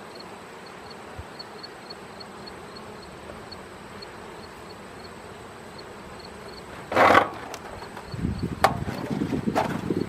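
Faint hum of honeybees around a hive, then about seven seconds in a loud scrape followed by a run of wooden knocks and clunks as hive equipment is handled.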